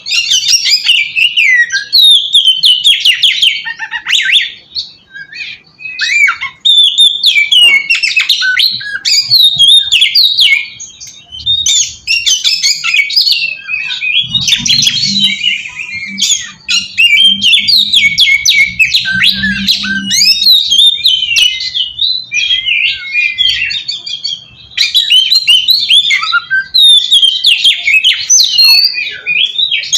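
Oriental magpie-robin (kacer) singing a loud, fast, varied song of quick high whistled and chattering phrases, almost without break, pausing briefly about 5 and 11 seconds in. It is the kind of full song used as a lure to provoke other male magpie-robins to answer. A faint low hum runs underneath in the middle of the stretch.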